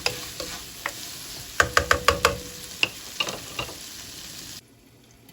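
Chicken sizzling in a pan with garlic and onion, with a run of sharp knocks of a utensil against the pan about two seconds in and a few more later. The sizzle cuts off suddenly near the end.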